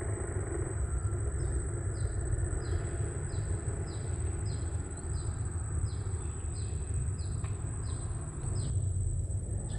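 Outdoor ambience: a steady low rumble with a steady high whine, and a short high chirp repeated a little under twice a second that stops shortly before the end.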